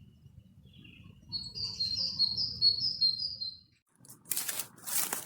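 A songbird singing one phrase of about six quick repeated notes, each slurring downward. About four seconds in, a dry rustling noise takes over.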